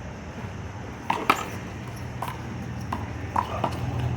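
Handball being struck by hand and smacking off the wall and pavement during a one-wall handball rally: a string of sharp smacks, starting about a second in and quickening near the end, over a steady low hum.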